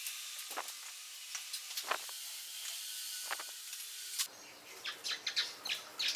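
A steady high hiss with three soft knocks, which stops abruptly about four seconds in. Small birds then chirp in quick short notes.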